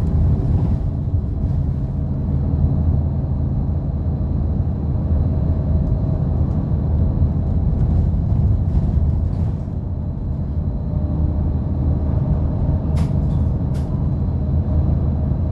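Route bus's diesel engine running steadily as the bus drives, heard from inside the passenger cabin, with two brief sharp sounds close together near the end.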